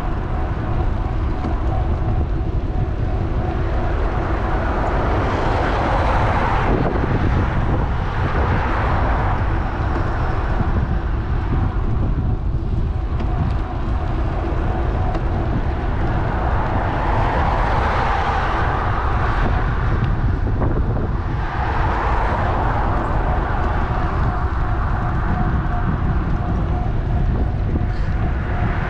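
Steady wind rushing over the microphone of a GoPro Hero 8 on a moving electric bike, with road traffic swelling and fading several times.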